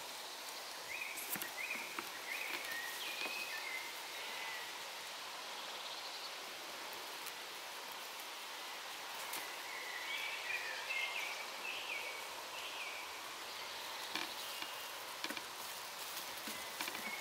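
Steady background hiss with a small bird singing two short phrases of quick high notes, one a second or so in and another just past the middle, and a few faint clicks.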